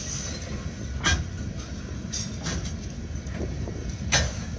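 Open-top hopper rail cars rolling past with a low, steady rumble of wheels on track, broken by sharp metallic clanks: one about a second in, a few fainter ones in the middle, and the loudest near the end.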